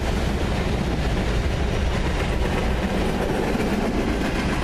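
Freight train of tank cars and covered hoppers rolling past: a steady rumble of steel wheels on the rails with a light clickety-clack.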